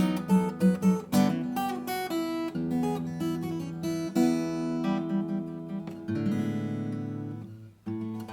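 Acoustic guitar being played, picked notes mixed with strummed chords. A chord is left ringing and fades away about three-quarters of the way through, then playing starts again.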